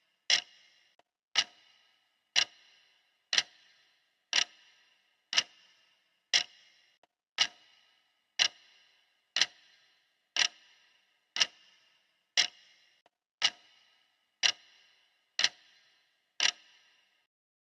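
Clock ticking, one sharp tick each second, stopping near the end as the 20-minute countdown runs out.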